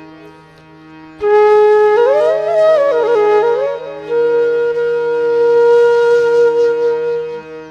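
Background flute music over a steady drone: the flute comes in about a second in on a held note, plays a quick ornamented run of notes, then holds one long note.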